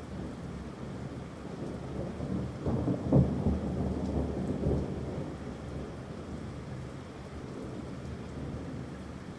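A roll of thunder that builds, peaks with a sharp crack about three seconds in, and rumbles away over the next couple of seconds, with steady rain falling throughout.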